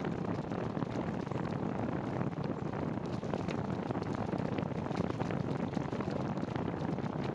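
Rain and wet tyres on a rainy bicycle ride: a steady hiss with many small ticks of drops.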